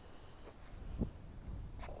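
Wind buffeting the microphone: an uneven low rumble with a single knock about a second in, and gusty hiss picking up near the end.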